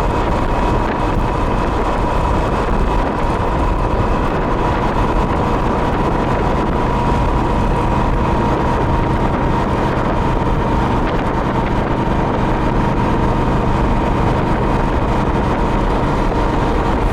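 Yamaha Royal Star V4 cruiser motorcycle running at a steady speed, engine drone mixed with wind rushing over the microphone, with a thin steady whine above it.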